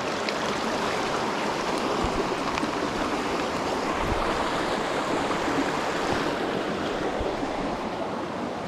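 Mountain stream water rushing over rocks in a steady flow, with a few soft low thuds about two and four seconds in.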